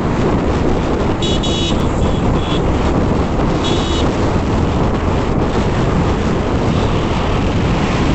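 Wind rushing over the microphone and the running noise of a moving motorcycle. Short horn toots sound about a second in, again around two seconds, and near four seconds.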